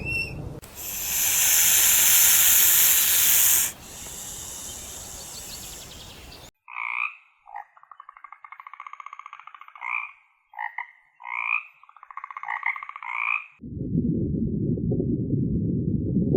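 A loud hiss, then a series of about six pulsed, rasping animal calls, each about a second long. A steady low rumbling noise starts near the end.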